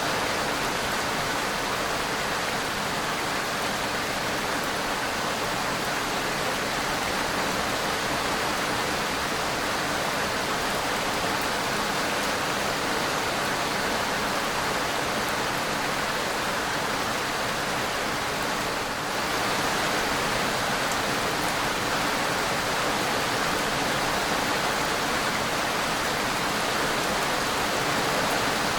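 Steady, even rain, a dense unbroken hiss of falling drops with no distinct single impacts; it dips briefly about two-thirds of the way through, then carries on.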